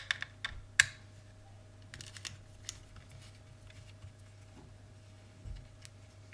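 Small plastic clicks and taps from a digital multimeter's case being handled and prised apart, a quick cluster in the first second, another about two seconds in, then a few scattered clicks.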